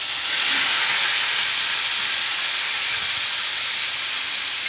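Onion paste dropped into hot oil in a frying pan, sizzling in a steady hiss that swells to its loudest about half a second in.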